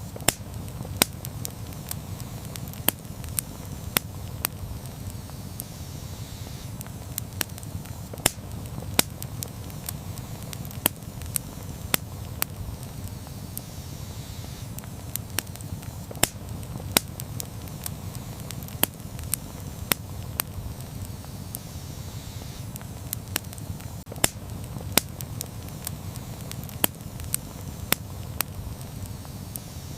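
Campfire burning with a steady low rumble, crackling and popping in sharp, irregular snaps a few times a second.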